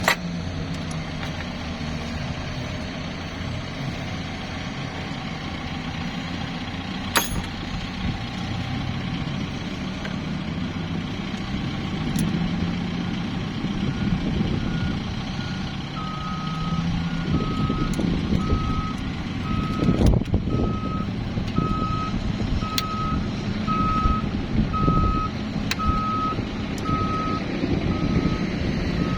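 A vehicle engine running with a low rumble, and from about halfway a reversing alarm beeping about once a second as a heavy vehicle backs up; a sharp knock or two in between.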